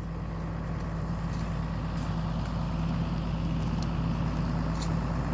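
Tractor engine running steadily at a constant speed, with a low, even hum.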